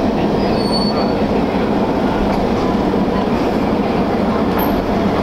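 Pan Am Railways diesel locomotive pulling a passenger train past at close range, its engine running steadily over the noise of the wheels rolling on the rails.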